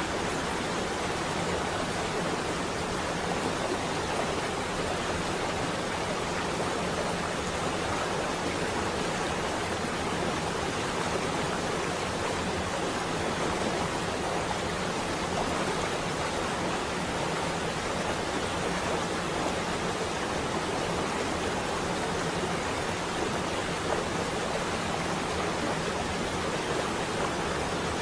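Steady rain on a window glass: an even, unbroken hiss with no thunder.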